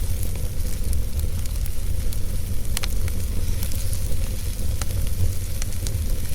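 Wood fire burning in a fireplace: a steady low rumble with scattered crackles and pops, one sharper pop about three seconds in.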